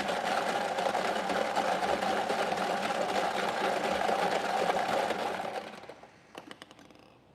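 Number-drawing machine for a prize draw running with a fast, steady rattle, then dying away about six seconds in into a few separate clicks as the next digit settles.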